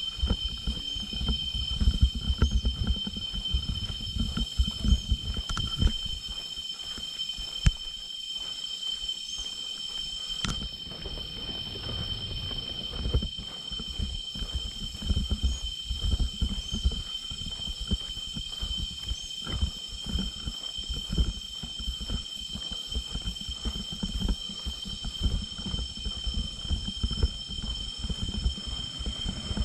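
Steady, high, droning rainforest insect chorus with a constant shrill tone. Uneven low rumble underneath comes and goes and is heaviest in the first few seconds.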